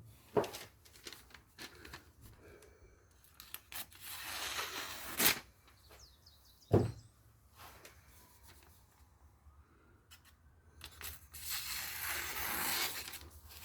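A freshly sharpened knife slicing through paper twice: a short rustling hiss about four seconds in and a longer one near the end, with a few sharp knocks in between.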